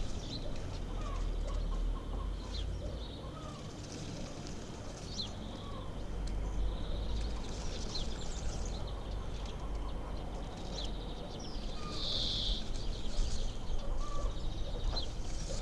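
Short bird chirps at scattered intervals, with a longer fluttering call about twelve seconds in, over a steady low rumble.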